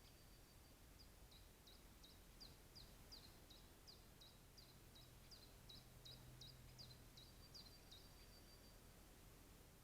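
Faint bird calls: a run of about twenty short, high, falling notes, roughly three a second, starting about a second in and stopping around eight seconds.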